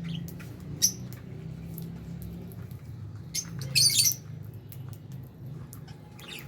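Lovebirds chirping: scattered short, high-pitched calls, with a louder burst of chirps about four seconds in. A steady low hum runs underneath.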